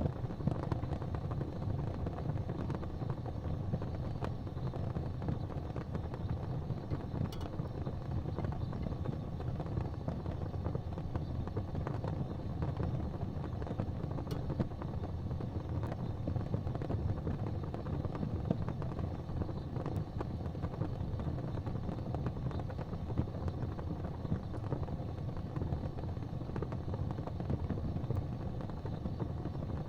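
Fireplace fire burning with a steady low rumble and a few faint crackles and pops.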